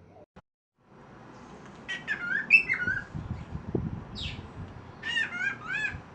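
Pet bird singing: two bursts of rapid warbling, curving whistled notes, about two seconds in and again about five seconds in, with a short single note between them.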